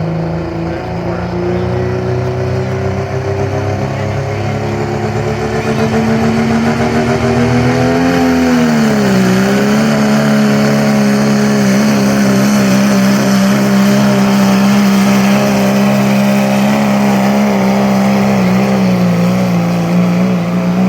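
Engine of a pulling vehicle running hard under full load while dragging a weight-transfer sled. The revs climb steadily, dip briefly about nine seconds in, then hold steady and high.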